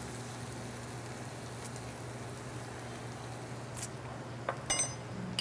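Lemongrass pork stir fry sizzling steadily in a hot pan, with a few clinks of a metal spoon against the pan near the end, one of them ringing.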